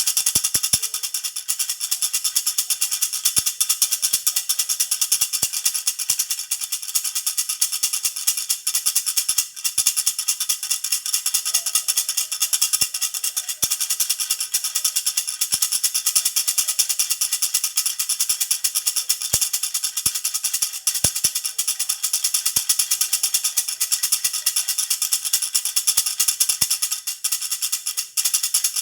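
Jhunjhuna baby rattle shaken without a break, a fast, continuous jingling rattle.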